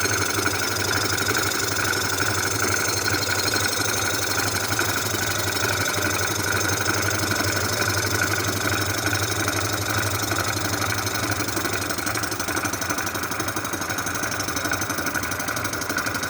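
Cylinder-head surfacing machine running steadily, milling the rusty exhaust-port face of an Oldsmobile V8 cylinder head flat so that the exhaust gasket will seal. The machine noise is loud and even, with a steady high whine over a low hum.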